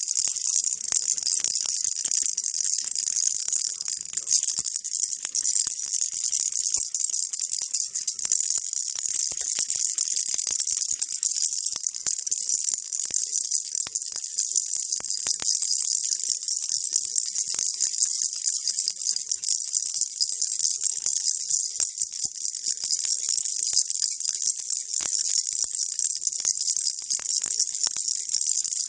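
Baby rattle shaken without pause, giving a dense, steady, hissing rattle of many fine clicks.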